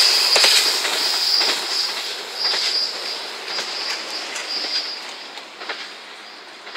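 Two-car KiHa 185 series diesel railcar train running away, its wheels giving a high squeal that comes and goes in stretches, with a few clacks over rail joints early on. The sound fades steadily as the train recedes.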